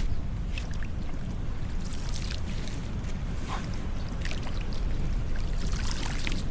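Floodwater splashing and pouring in irregular bursts over a steady low rumble of wind on the microphone.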